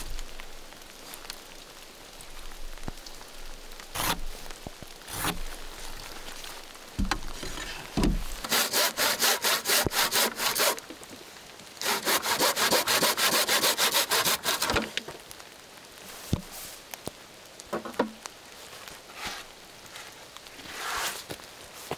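Rapid back-and-forth rasping strokes, about six a second, like sawing, in two runs of two to three seconds each, with a few knocks and rustles between them.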